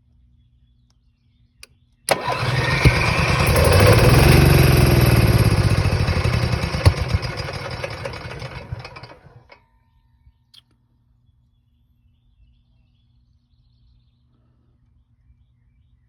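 Onan generator engine being cranked after a click, turning over for about seven seconds: it starts suddenly, grows louder, then fades away and stops without the generator running.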